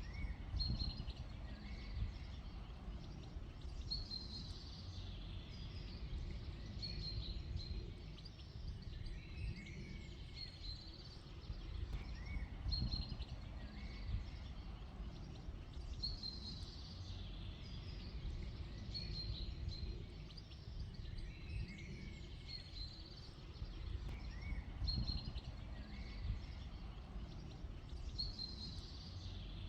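Small birds chirping in short phrases that come back every few seconds, over a steady low rumble.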